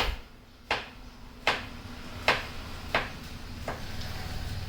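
A series of sharp knocks or taps, six of them at an even pace of a bit more than one a second, over a low steady hum.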